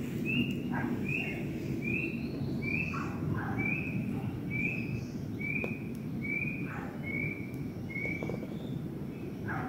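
A bird calling a long series of short notes, about one and a half per second, evenly spaced and slowly falling in pitch. A few other brief, lower calls sound now and then, over a steady low background noise.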